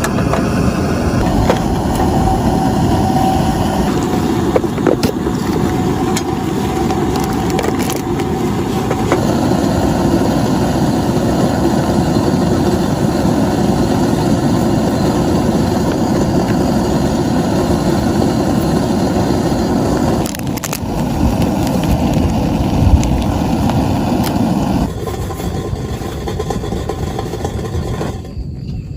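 Heavy rain falling on a tent, a dense steady hiss that changes character abruptly a few times. A single sharp low thump stands out late on.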